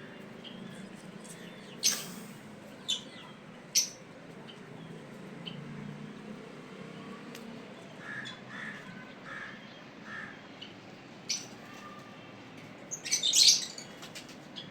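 Birds chirping: short, sharp calls every second or so, a run of about five lower notes around the middle, and a loud burst of rapid calls near the end.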